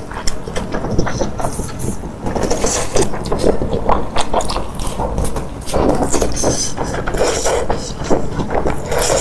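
Close-miked eating sounds: wet chewing, smacking and slurping of saucy noodles, as a dense run of irregular mouth clicks.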